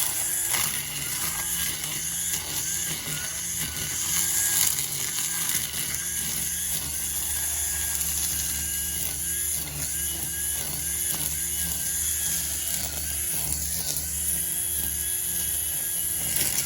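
String trimmer running at full speed while cutting grass, its whine wavering slightly in pitch as the line meets the grass.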